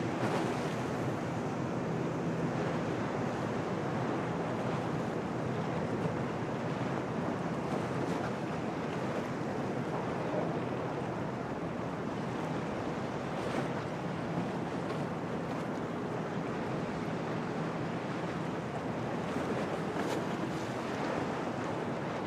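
Storm wind and waves washing in at a harbour, a steady rush of noise with a few brief sharper splashes or gusts. Wind buffets the microphone.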